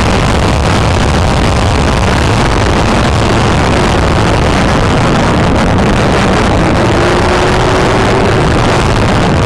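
Vehicle engine and road noise while driving, loud and steady, with a faint tone rising slowly in the second half.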